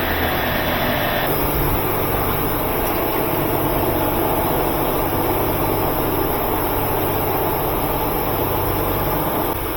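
A machine running steadily: a low hum under an even hiss, with a slight change in tone about a second in.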